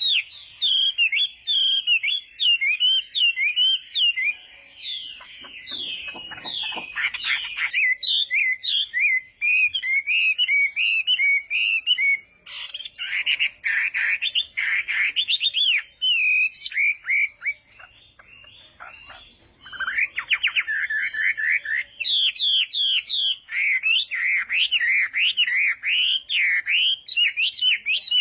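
Chinese hwamei (họa mi) singing a long, varied song of fast whistled phrases, broken by rapid trills and a couple of softer pauses.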